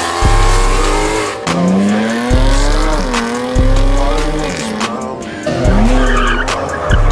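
Car engines revving and tyres squealing during pullouts, over music with deep bass hits that come every second or so.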